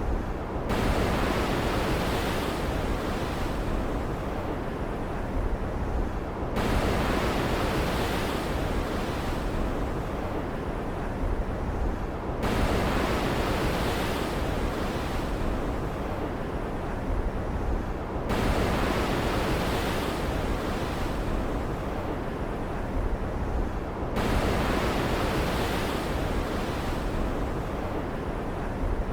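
Stormy-sea ambience: a wash of waves and wind that surges up abruptly about every six seconds and dies back, over a steady low rumble.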